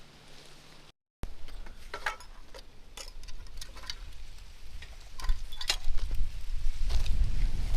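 Scattered light clicks and taps, irregular and a few a second. The sound drops out briefly about a second in, and from about five seconds in a low rumble builds underneath.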